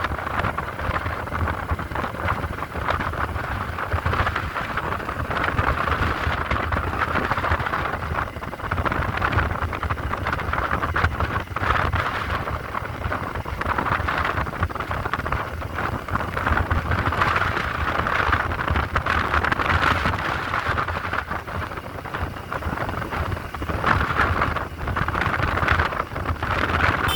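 Motorcycle riding noise: wind rushing over the microphone with the low rumble of the engine and road, steady and gusting, with no voices.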